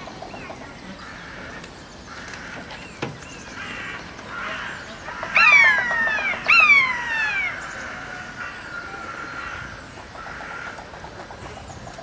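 Birds calling: two loud calls about a second apart, each sliding down in pitch, among fainter calls.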